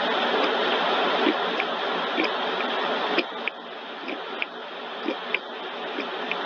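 Car wash tunnel equipment running with a steady rushing noise that drops sharply about three seconds in, along with a series of sharp irregular clicks.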